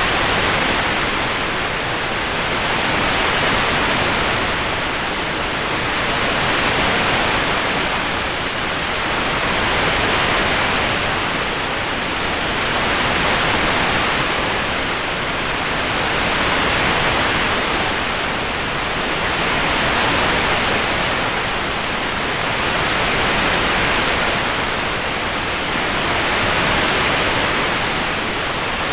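Steady recorded rain sound: an even, full hiss that swells and eases gently about every three seconds.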